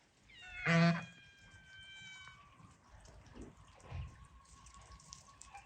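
A short animal call, loud and pitched, about a second in, followed by faint scattered clicks and knocks.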